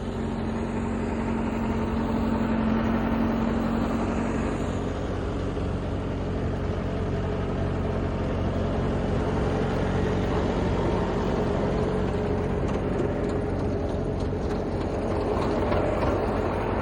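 Engine of a farm vehicle running steadily, a constant low hum that keeps the same pitch throughout.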